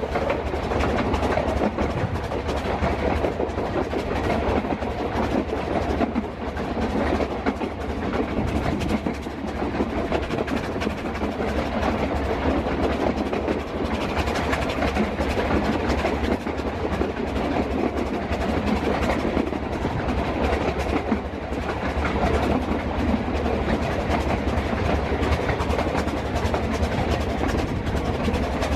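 Narrow-gauge passenger train running along the track, with steady wheel-on-rail rumble and a continuous rattle and clatter of the carriages, heard from inside an open-sided carriage.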